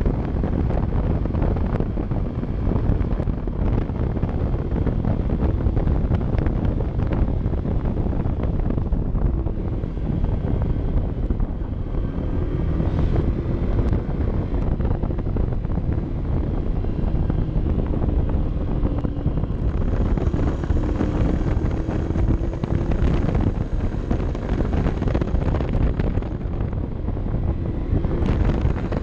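Wind rushing hard over an action camera's microphone on a moving motorcycle. Beneath it, the Honda CB 125 F's small single-cylinder four-stroke engine is faintly heard, its note rising and falling in pitch.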